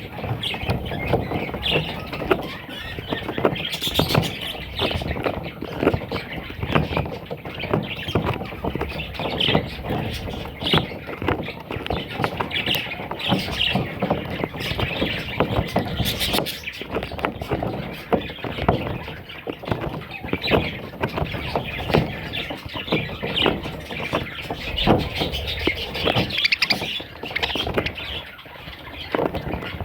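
Budgerigars chirping and chattering continuously, with many small clicks and knocks mixed in.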